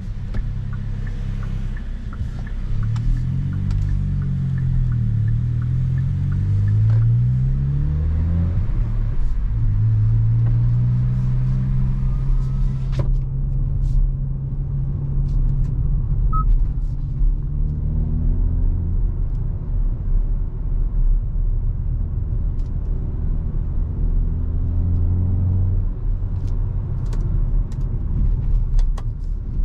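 Hyundai i20 N's 1.6-litre turbocharged four-cylinder engine and exhaust while driving: the engine note rises and falls over the first several seconds as the throttle and gears change, then holds steadier at a lower pitch. A single sharp click sounds partway through.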